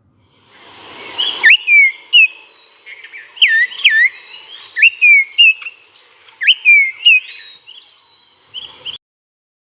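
Common iora calling: a series of sharp whistled notes that swoop down and back up, in clusters about every one and a half seconds.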